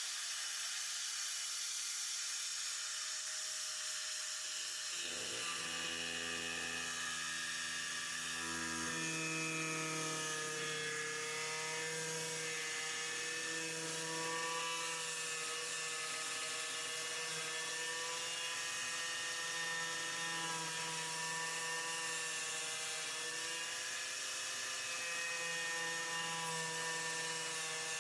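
A power tool runs continuously with a whirring tone that wavers slowly in pitch, over a steady hiss. The whir starts about five seconds in.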